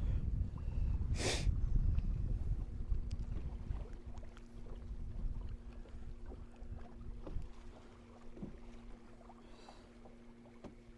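Wind buffeting the microphone with a heavy low rumble that eases off after about four seconds, and one short sharp noise about a second in. A steady low hum then carries on underneath.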